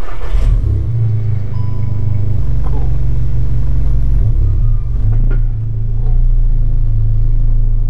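Stage 3 VW MK7 GTI's turbocharged 2.0-litre four-cylinder starting up and settling into a low, rumbling idle. It is heard inside the stripped, roll-caged cabin.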